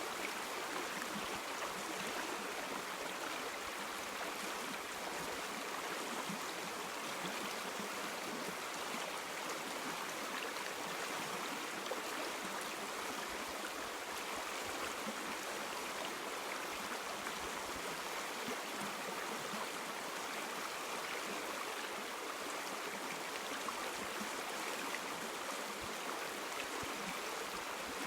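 A river or stream flowing over rocks, giving a steady rushing and babbling that holds even throughout.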